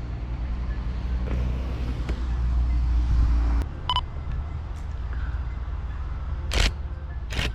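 Camera shutter firing twice near the end, over a steady low rumble that drops away about three and a half seconds in. A short beep sounds just before four seconds.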